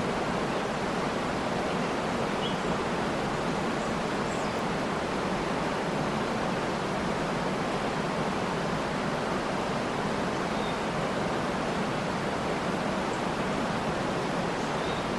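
Steady rushing of a waterfall, with a few faint, brief bird chirps over it.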